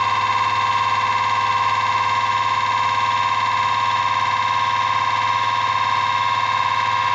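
Home-built BLDC motor generator rig running at a steady speed, giving off a loud, unchanging electric buzz and whine made of several fixed tones. It has settled to an even run after starting up.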